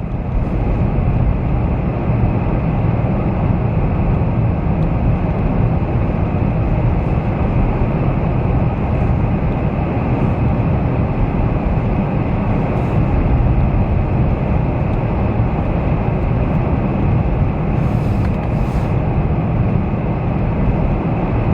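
Steady rumble of a moving car heard from inside the cabin: tyre and road noise, with strong wind against the vehicle.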